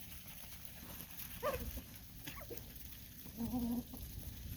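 Farm animals calling: two short calls about a second and a half and two seconds in, then a longer, lower call about three and a half seconds in.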